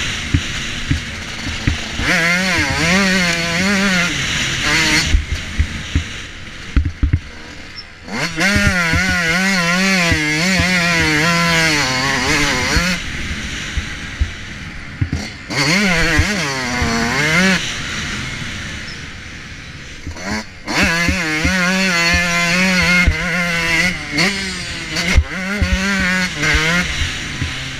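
Motocross dirt bike engine revving hard, its pitch rising and falling again and again through throttle and gear changes. The engine drops away a few times as the rider comes off the throttle. Short knocks are heard between the revs.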